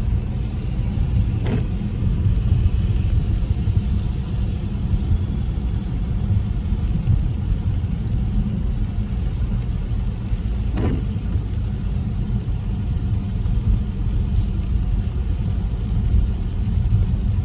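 Steady low road and engine rumble of a car heard from inside the cabin while driving, with two brief faint sounds about 1.5 seconds and 11 seconds in.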